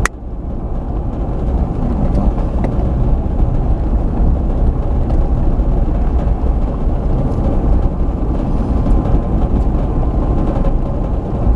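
Steady engine and tyre noise of a vehicle driving along a road, heard from inside the cab. The sound dips briefly right at the start, then stays steady.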